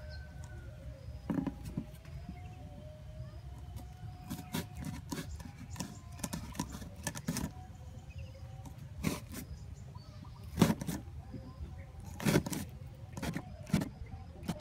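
Hand work on a homemade bird trap: irregular clicks, taps and scrapes of the trap's materials being handled, the loudest knock about ten seconds in, over a low steady rumble.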